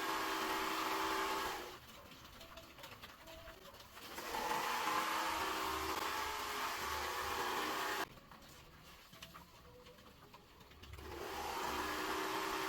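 A steady mechanical whir with a low hum, like a small motor running. It cuts off suddenly twice and builds back up each time.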